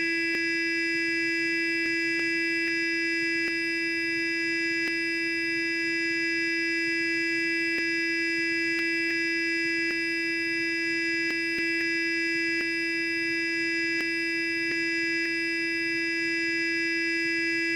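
Sonic electric toothbrush running continuously: a steady, even buzzing hum with a strong low tone and many overtones, and a few faint ticks scattered through it.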